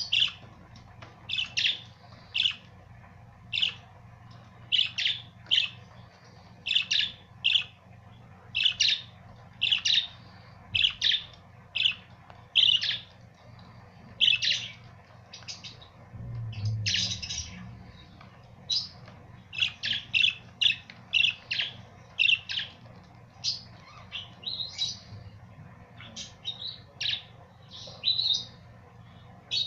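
Budgerigars chirping: short, sharp chirps repeating every half second to a second, with a few calls overlapping.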